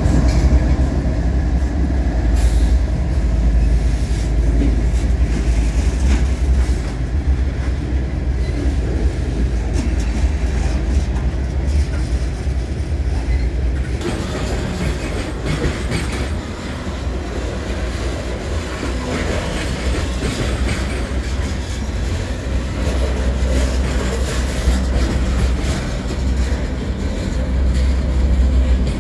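A CSX freight train passing close by. The deep rumble of its diesel locomotives comes first, then about halfway through it gives way to the brighter, steady rolling noise of covered hopper cars on the rails.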